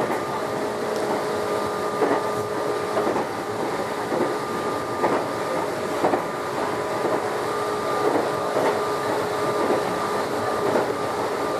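Meitetsu 6900 series electric train motor car running at steady speed: a steady whine from the drive over wheel-on-rail rumble, with sharp clacks over rail joints every second or two.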